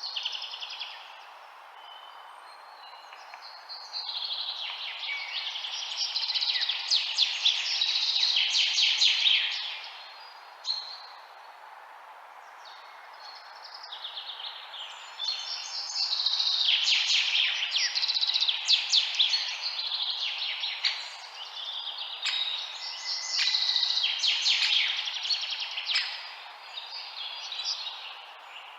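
Songbirds chirping and singing in dense, overlapping bouts of quick high notes, swelling and easing three times, over a steady background hiss.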